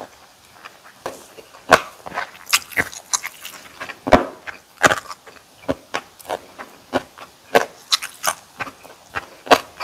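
Close-miked chewing of bossam and kimchi: irregular crisp crunches and wet mouth clicks, one or two a second, starting about a second in.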